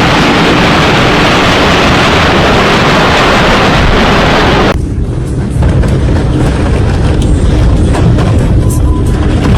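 Storm wind blasting across the microphone as a loud, even rush of noise. About halfway through it changes suddenly to a deeper, lower rumble of wind.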